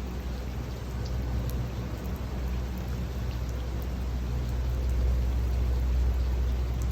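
Steady rainfall, with scattered individual drop ticks over a constant hiss and a deep low rumble underneath; it grows slightly louder about five seconds in.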